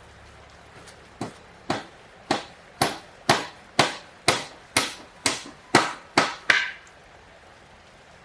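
A hand tool striking wood about a dozen times in a steady rhythm, roughly two blows a second, then stopping.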